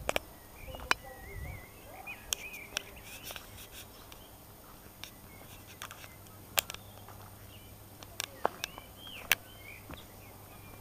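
Birds chirping in short, wavering calls, with a few sharp clicks scattered through.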